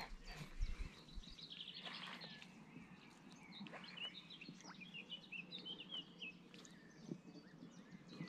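Faint birdsong: small birds chirping and twittering, busiest around the middle, over a quiet outdoor hiss.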